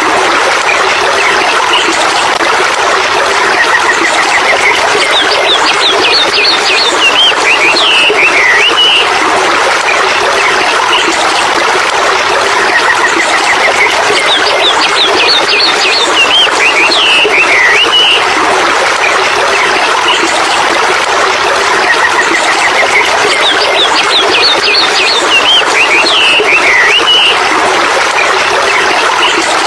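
Steady rushing water, like a stream, with a songbird's chirping phrases and a rising trill over it. The same bird phrase comes back in the same shape about every ten seconds.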